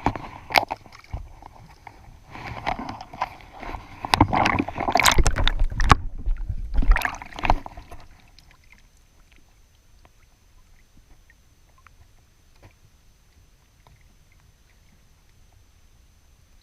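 Water sloshing and gurgling against a kayak, in irregular bursts with sharp knocks for about eight seconds, then dying down to a faint hiss.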